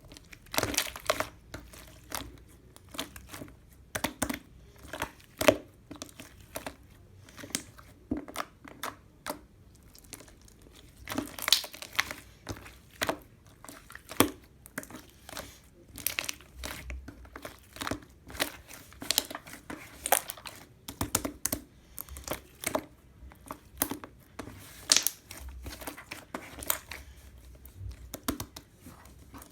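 Pearl slime being squeezed, stretched and poked by hand, giving many irregular sticky clicks and pops.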